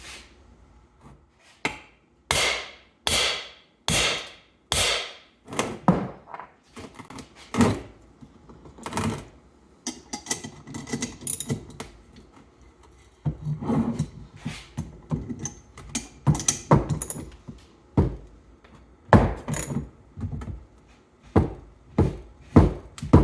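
Irregular series of knocks, thunks and clatters from hand tools working on a small engine being taken apart, with the loudest strikes in the first few seconds.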